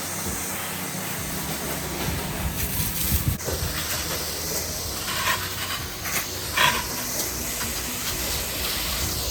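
Pressure-washer spray hissing steadily as it is worked over the surfaces, with the low hum of the gas-engine pump underneath and a few louder bursts of spray about five to seven seconds in.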